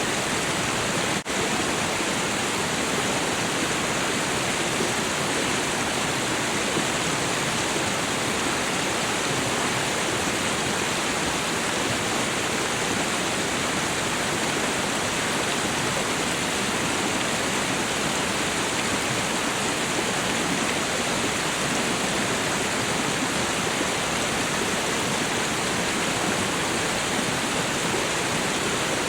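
Waterfall rushing: a steady, dense roar of falling water. There is one momentary dropout about a second in.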